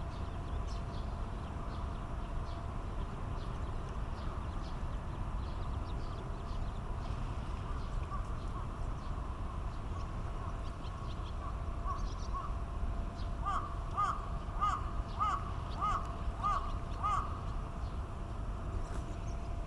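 A bird calling in a run of about eight repeated, arched notes, roughly two a second, about two-thirds of the way through, after fainter scattered notes. Faint high chirps and a low steady rumble sit underneath.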